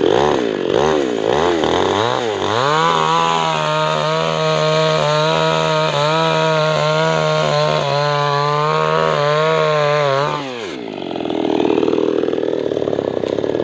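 Chinese-made two-stroke chainsaw engine revved in short blips, then held at high revs for several seconds. Near the end the pitch drops and the note turns rougher.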